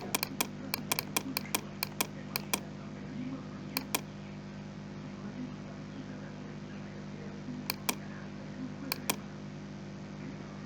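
Sharp clicks of computer input: a quick run of clicks in the first couple of seconds, then three double clicks spread through the rest. They sit over the steady low hum of a computer fan.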